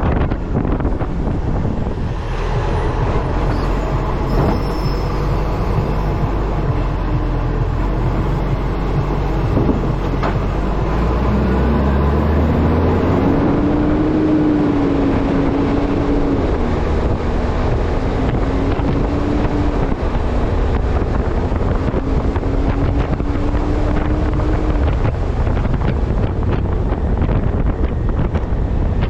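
Wind rushing over the microphone of a camera mounted on the front of a moving Acco truck, over the steady drone of the truck's engine and drivetrain. From a little before halfway to near the end, a tone rises and falls in pitch with the running gear.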